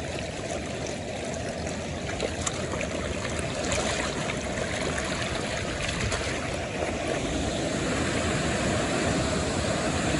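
Floodwater rushing in a creek that has overflowed its banks, a steady wash of moving water that grows slightly louder toward the end.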